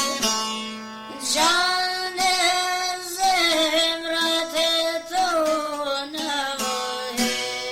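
A young girl singing an Albanian folk song in long, held, wavering notes, accompanied by a plucked string instrument whose notes stand out near the end.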